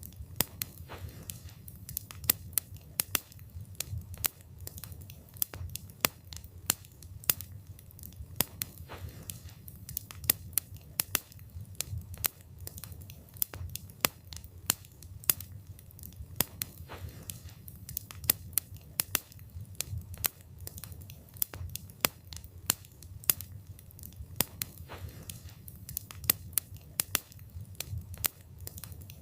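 Wood fire burning with a steady low rumble of flames and frequent sharp, irregular crackles and pops from the burning wood.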